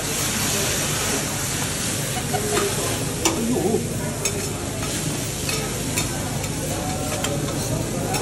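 Steak sizzling on a hot teppanyaki steel griddle, a steady frying hiss, with a series of sharp metal clicks and taps of the chef's utensils on the plate from about two seconds in.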